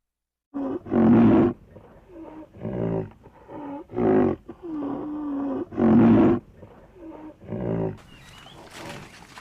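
A large animal calling again and again: about ten short pitched calls, some bending in pitch and one held longer near the middle, then fading into fainter background noise near the end.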